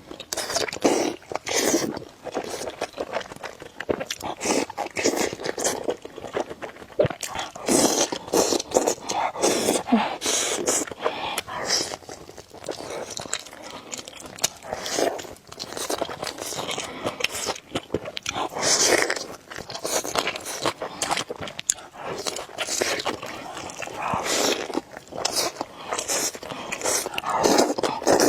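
A person eating spicy noodles, chewing and biting, with many short, irregular noisy bursts throughout.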